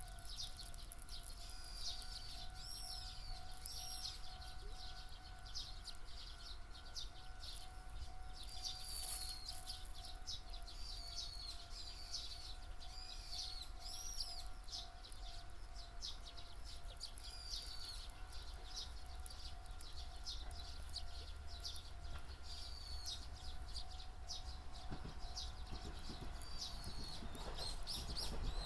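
Small songbirds chirping, short high arched notes repeated again and again, over a faint steady hum.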